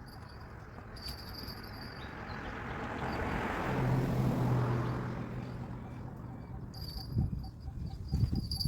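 A motor vehicle passes by, its sound swelling to a peak about halfway through with a low engine hum, then fading away. Insects chirp in the background.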